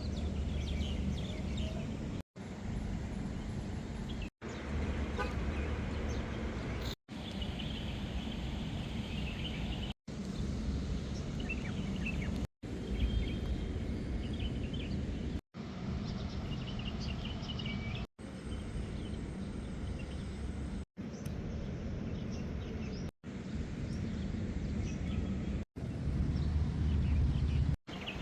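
Outdoor street background: a steady low rumble of distant traffic with faint bird chirps. The sound drops out briefly every two to three seconds.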